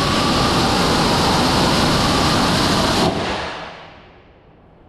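High-power rocket motor burning at full thrust after lift-off: a loud, steady rushing hiss. It cuts off about three seconds in at burnout and trails away as the rocket climbs out of range.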